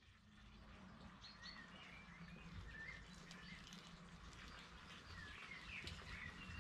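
Faint birdsong outdoors: a few short chirping calls in two brief runs, over a low steady background hum.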